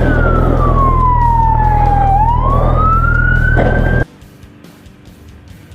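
Police siren wailing: its pitch slides slowly down and then back up, over a steady engine rumble. It cuts off suddenly about four seconds in.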